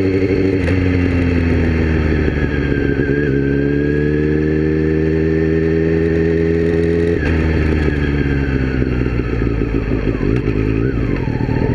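Motorcycle engine running at moderate revs while the bike is ridden, heard close up from a camera mounted on the bike. The engine note dips briefly about three seconds in and drops again about seven seconds in.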